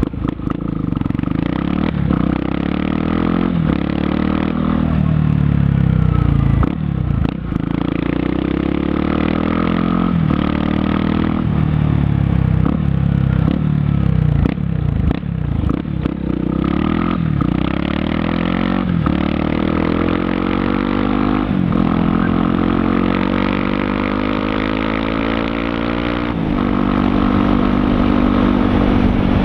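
Yamaha XTZ 250 Lander's single-cylinder four-stroke engine through an aftermarket DORE exhaust, being ridden hard: the pitch climbs and drops back again and again through the gear changes, with a longer climb just before the end. The exhaust is loud, bellowing.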